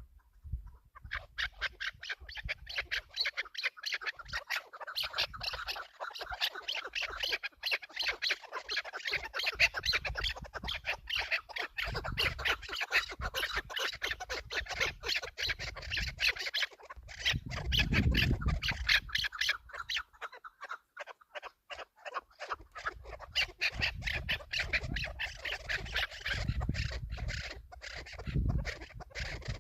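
Chukar partridges calling: a fast, continuous run of short repeated clucking notes. Low thumps and rumbles sound underneath, strongest about two-thirds of the way through.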